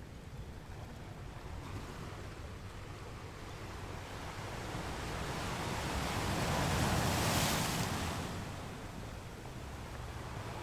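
Ocean surf: a steady wash of water with one wave swelling and breaking about seven seconds in, then falling back.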